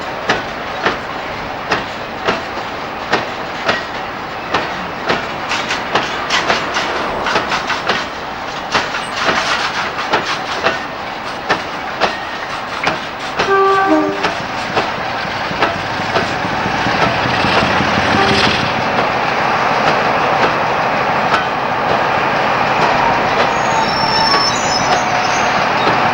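A train rolling past, its wheels clicking over rail joints in a steady clickety-clack. A short horn note sounds about halfway through. After that the clicking gives way to a steady, rising rumble of the train.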